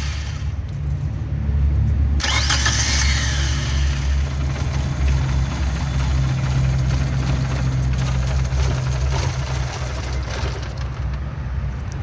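Car engine being started and running with a steady low hum; a louder rushing noise comes in about two seconds in. Shown as the hard starting of a car with a failing fuel pump.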